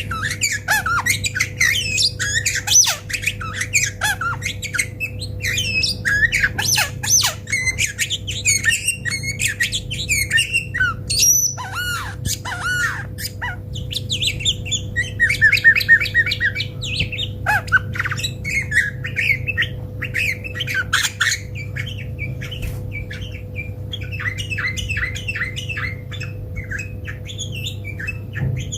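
Bulbul calling and singing in a continuous run of quick, varied chattering notes and short whistles, over a steady low electrical hum.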